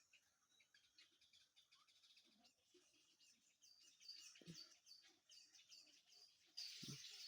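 Faint bird chirping: a run of short, high chirps repeated about three times a second, with two soft thumps and a brief hiss near the end.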